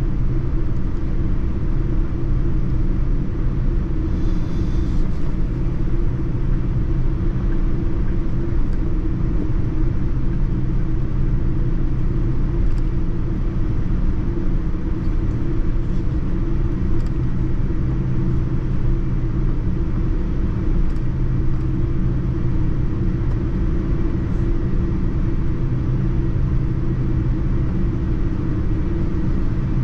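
Steady low rumble of engine and airflow noise inside the cabin of a Boeing 787-9 airliner, unchanging throughout.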